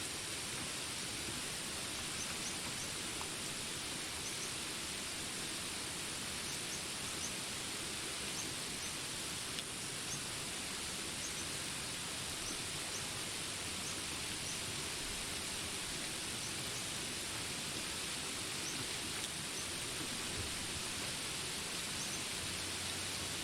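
Jungle ambience under steady rain: an even rain hiss, with many short, high chirps of jungle animals scattered over it.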